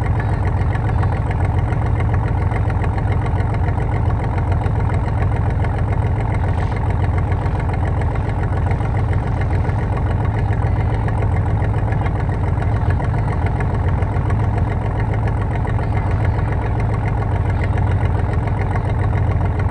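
Car engine idling steadily, with no revving.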